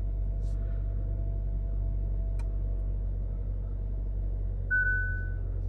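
Kia Sportage engine idling in Park, a steady low hum heard from inside the cabin, with a single click about halfway through. Near the end the instrument cluster sounds one short warning chime that fades out, as a new fault warning comes up on the display.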